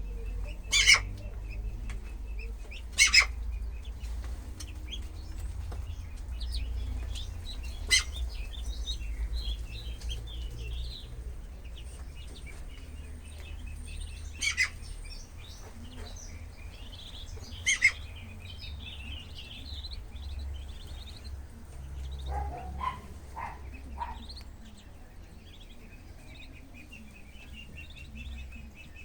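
Ducklings peeping: many small high chirps overlapping throughout, with about five short, loud, sharp sounds spaced through it and a brief run of lower-pitched sounds a little past two-thirds of the way in.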